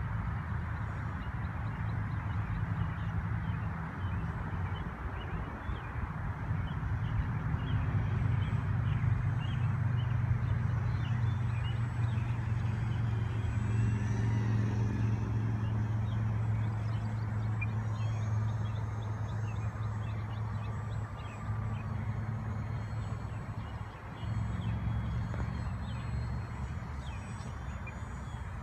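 Twin-engine remote-control Aero Commander model airplane's motors running with a steady low hum that swells and eases, dipping briefly near the end. Small birds chirp faintly.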